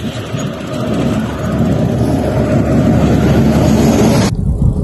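A motor vehicle passing on the highway: a rushing road noise that grows louder from about a second in, then cuts off abruptly near the end.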